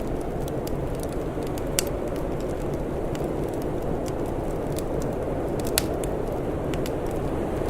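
Wood fire crackling: scattered sharp crackles and two louder pops, about a quarter and three quarters of the way through, over a steady low rushing noise.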